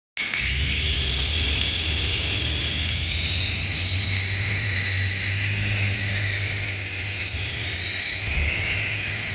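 Small electric motors of a remote-control toy running with a steady high whine that drifts slightly in pitch, starting abruptly just after the sound begins.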